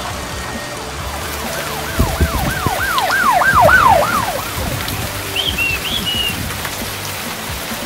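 Heavy rain pouring down steadily. About two seconds in, a low thud is followed by a fast run of about eight rising-and-falling siren-like electronic sweeps, the loudest sound here, and then a few short high chirps.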